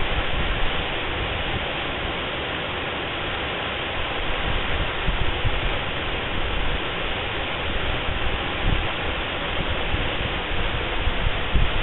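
Waterfall pouring: a steady rush of falling water, with uneven low rumbles underneath.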